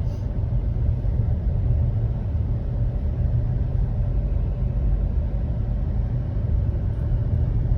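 Car driving up a steep road, heard from inside the cabin: a steady low rumble of engine and tyre noise.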